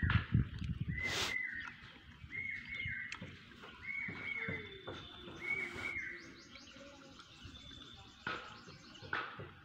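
A bird calling, a short note that rises and falls repeated about once a second for the first six seconds. A few low thumps sound right at the start.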